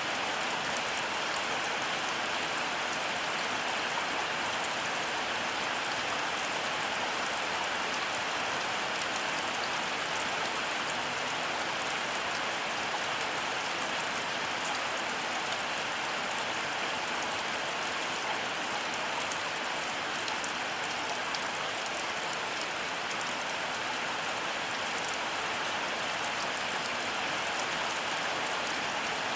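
Heavy rain falling steadily: a dense, even hiss of rain with a fine patter of individual drops, unchanging throughout.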